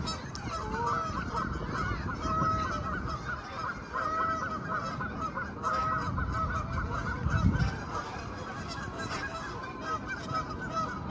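A flock of geese calling steadily, many short honks overlapping into a continuous chorus, with a brief low thump about seven seconds in.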